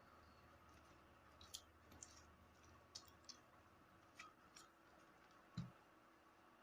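Faint, scattered clicks of scissors cutting open a parcel's packaging, with one louder, duller knock about five and a half seconds in.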